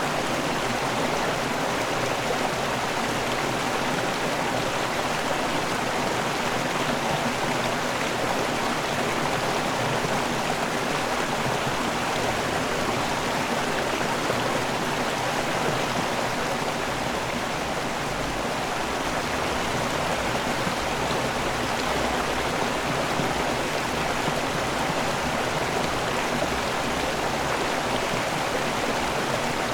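River water pouring over a waterfall and rushing downstream: a steady, even rush of water without a break.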